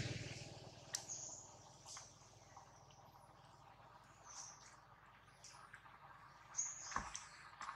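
The tail of the intro music fades out at the start. Then there are faint, high, short bird chirps now and then, along with a few soft clicks.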